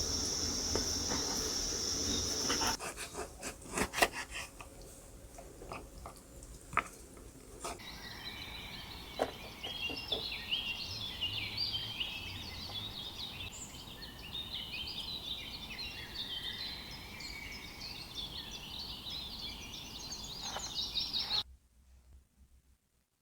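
Many small birds chirping together in quick overlapping calls for most of the stretch, cut off suddenly near the end. Before them, a steady high-pitched buzz lasts about three seconds, followed by a few seconds of sharp knocks and rubbing.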